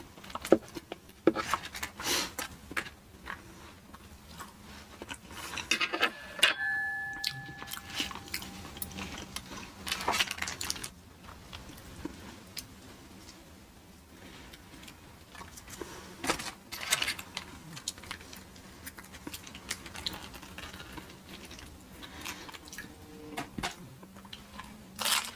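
Close-miked eating: irregular biting, crunching and wet chewing of fast-food tacos, with food and wrapper handling. A brief steady tone sounds about six and a half seconds in.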